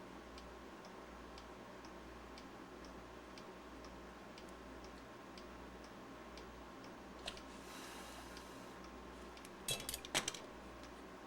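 Steady ticking of a clock, about two ticks a second, over a low hum. A short hiss comes about eight seconds in, then a few quick clicks and knocks near the end.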